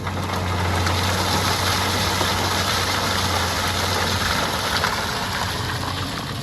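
Heavy diesel engine of quarry equipment running steadily, with a loud rushing hiss over it that eases near the end.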